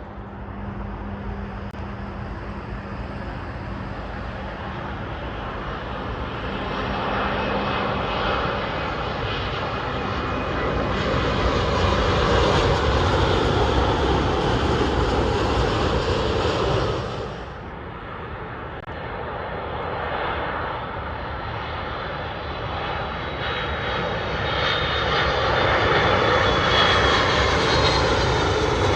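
A British Airways Boeing 787-8 on final approach passes low overhead, its jet engines building to a loud rush that cuts off suddenly about two-thirds of the way in. A Delta Air Lines Airbus A330-200 on approach follows, its jet noise rising again with a falling whine near the end.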